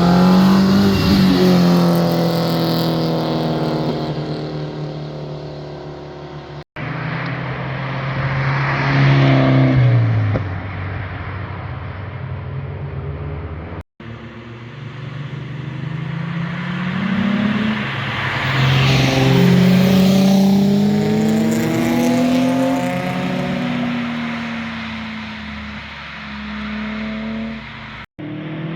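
Performance cars driving past one after another, each engine's note swelling, rising and falling in pitch as it accelerates by, then fading. Brief sudden dropouts break the passes into separate clips.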